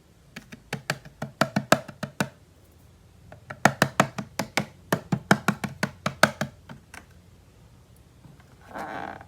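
Two quick runs of sharp, hard taps or clicks, about five a second, followed near the end by a short rustle.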